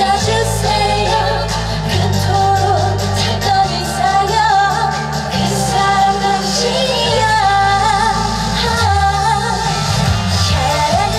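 A woman singing a Korean trot song with vibrato over full instrumental accompaniment with a steady bass line.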